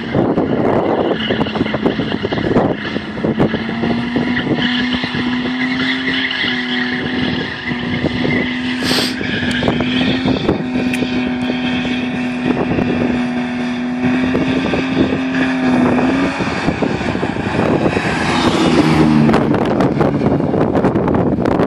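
BMW 320's M50B20 two-litre straight-six held at steady high revs while the rear tyres spin and smoke in a burnout. About 16 seconds in the steady note breaks off and the revs fall away in steps as the car drives off.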